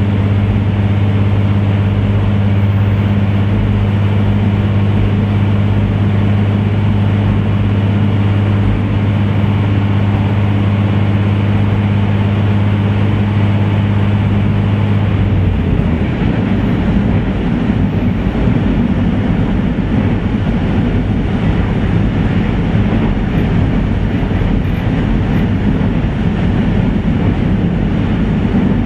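Inside an Ibara Railway diesel railcar running between stations: a steady low engine hum over the rumble of wheels on the rails. About halfway through the hum stops and the wheel and track rumble carries on.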